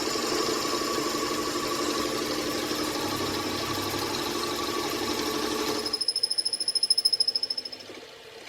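A machine running steadily with a level hum. About six seconds in, it cuts off abruptly and is replaced by a fast pulsing sound with a high whine, which dies down after about two seconds.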